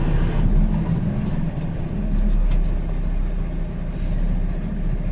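Dump truck's diesel engine running steadily at low speed, mostly low-pitched.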